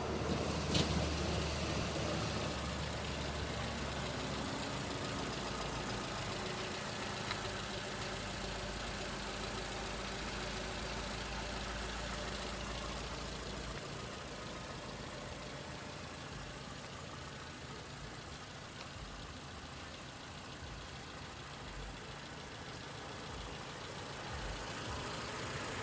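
2011 Toyota RAV4 engine idling steadily, heard in the engine bay. The deepest part of the hum drops away about halfway through.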